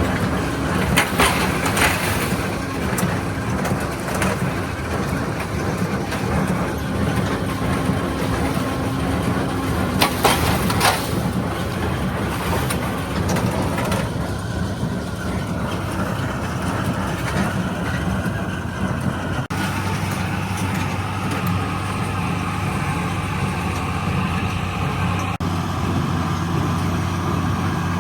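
1977 International Harvester 886's six-cylinder diesel engine running steadily under load while pulling a John Deere 348 small square baler, with the baler's mechanism clattering briefly about a second in and again about ten seconds in. The engine note changes about two-thirds of the way through.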